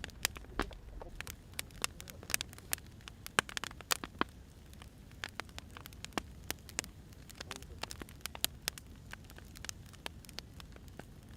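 Burning firewood crackling, with irregular sharp pops and snaps over a faint low steady rumble.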